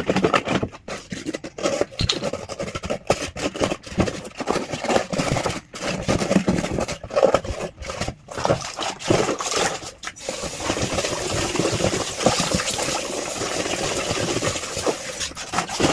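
Aseptic drink cartons being handled and scrubbed clean, with irregular rubbing and scraping. About ten seconds in, a tap starts running with a steady hiss of water.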